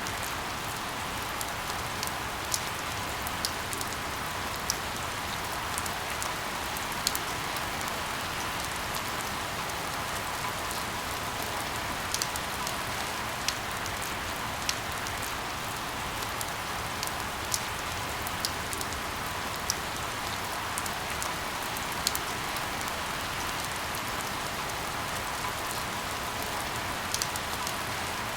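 Steady rain hiss with occasional sharp drips or drop taps standing out above it, a few times a second at most.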